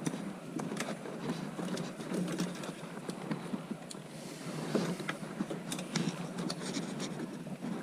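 Furnace draft inducer fan running steadily against a blocked flue, with scattered light clicks and knocks of hands and tools working on the furnace.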